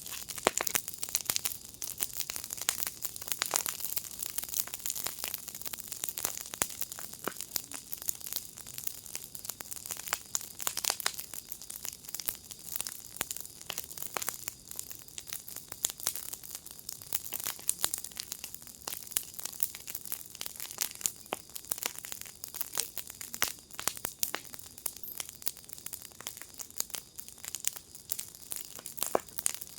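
Wood fire in a firepit crackling steadily, with many irregular pops and snaps over a soft hiss.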